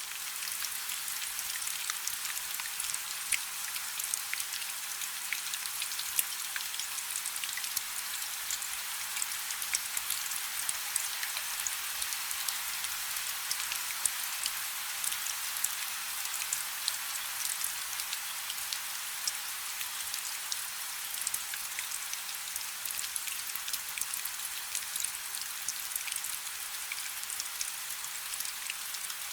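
Light rain falling steadily: an even, high hiss dotted with many small, sharp drop ticks, with almost no low rumble.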